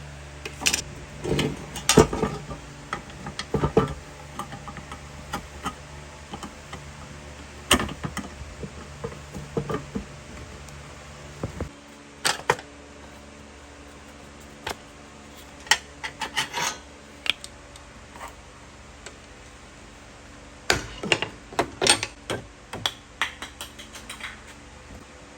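Irregular clinks and clatter of metal parts and hand tools being handled, over a steady low hum that stops about halfway through.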